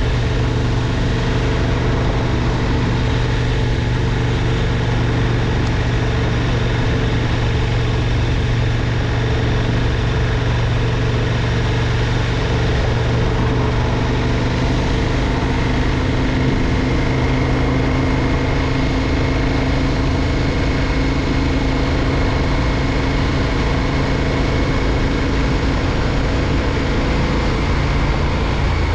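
KTM 1290 Super Duke R's V-twin engine running steadily, its pitch rising slightly about halfway through.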